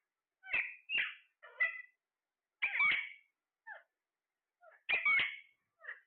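Parrot giving a string of short, meow-like calls, about seven in all, the loudest around the middle and near the end.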